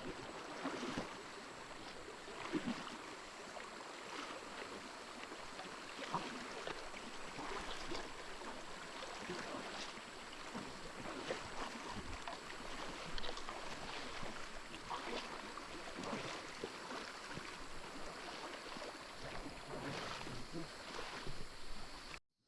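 River water flowing, with irregular small splashes and knocks over a steady rush; it cuts off suddenly near the end.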